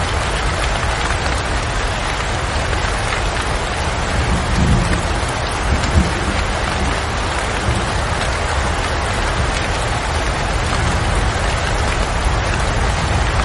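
Steady rain falling. A brief low rumble swells about four to six seconds in.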